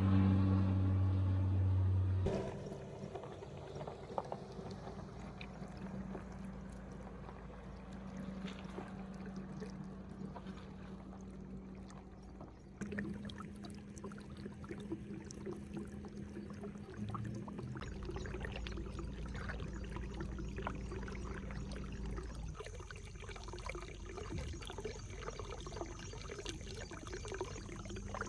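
Water pouring and trickling steadily, with abrupt jumps in the sound where the footage is cut. A steady low hum at the start cuts off about two seconds in.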